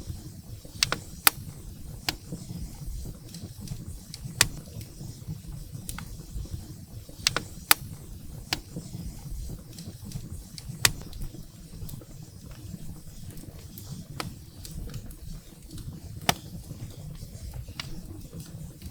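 Wood fire burning in a fireplace: sharp crackles and pops of burning firewood at irregular intervals over a steady low rumble of the flames.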